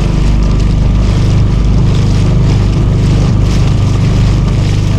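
Small boat's engine running at a steady speed: a constant low drone, with wind and water hiss over it.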